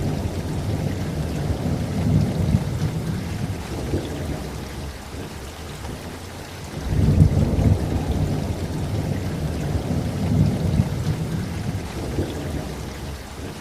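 Heavy tropical rain falling steadily, with deep rolls of thunder rumbling twice: once at the start and again from about seven seconds in.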